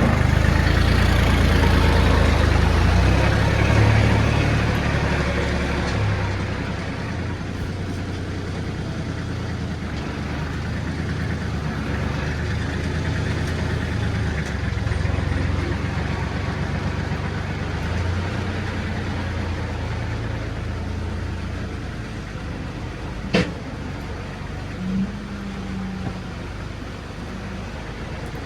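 A farm vehicle's engine running steadily, dropping in level about six seconds in. A single sharp click sounds near the end.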